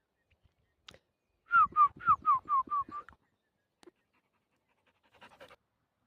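An animal calling: a quick run of about seven short, falling notes over about a second and a half.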